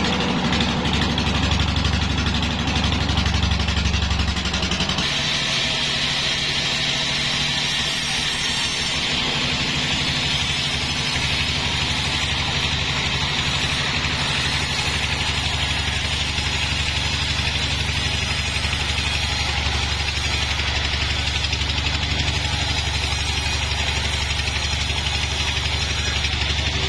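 An engine running steadily. About five seconds in its low hum weakens and a higher hiss rises, then it runs on unchanged.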